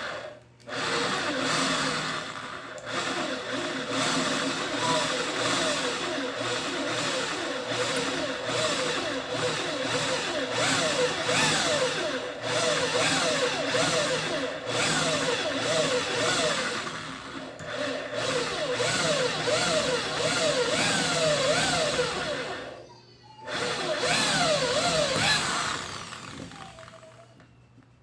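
Small electric mini drill press running and drilling a fine hole, its motor whine wavering up and down as the bit loads and frees. It stops briefly about 23 seconds in, starts again, then winds down near the end.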